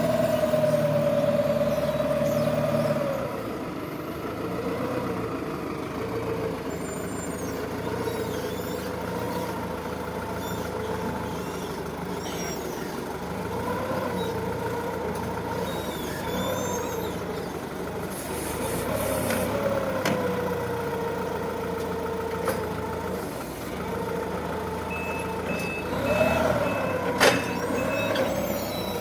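Counterbalance forklift running and manoeuvring, its engine and hydraulic whine rising and falling in pitch, louder for the first few seconds. Near the end its reversing alarm beeps in a short even run, and there is one sharp knock.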